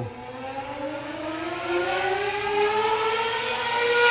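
Motorcycle engine accelerating, its pitch rising steadily over several seconds; very loud.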